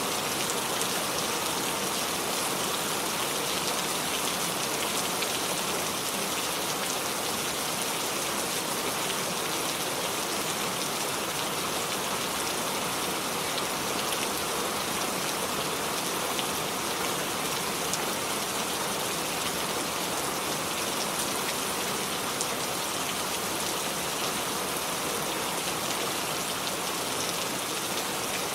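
Steady rain falling, a constant hiss of drops striking surfaces with fine pattering throughout.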